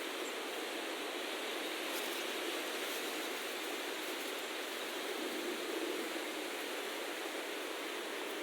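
A steady, even hiss with no separate sounds standing out and almost no low rumble.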